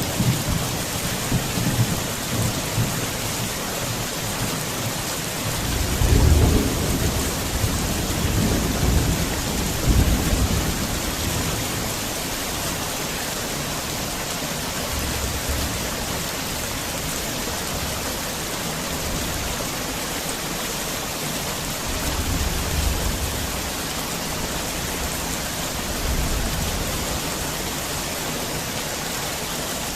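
Heavy rain pouring down as a steady dense hiss, with deep low rumbles swelling up about six to eleven seconds in and twice more later on.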